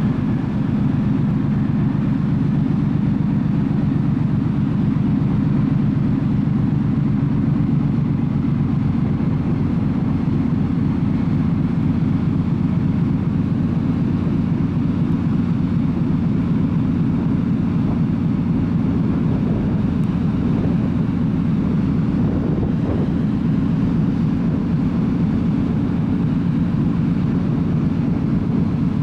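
Steady low drone of a car ferry's engines and machinery, heard from on board while the ship is under way.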